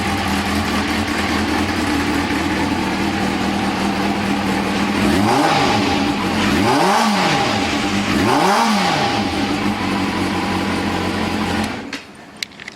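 Kawasaki ZRX400 inline-four engine with a Yoshimura titanium Cyclone aftermarket muffler idling steadily, then blipped three times in quick succession, each rev rising and falling back to idle. About twelve seconds in the engine is switched off, followed by a couple of sharp clicks.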